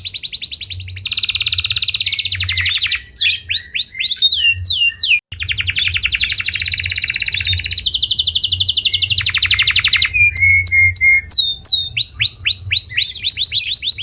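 Canary song: long rapid trills of repeated notes alternating with sweeping whistled slurs, with a brief break about five seconds in.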